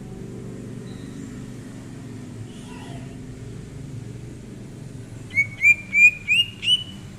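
Green leafbird (cucak ijo) singing: a few faint soft notes, then, in the last two seconds, a quick run of five loud, short, upward-sweeping whistled chirps. A steady low rumble runs underneath.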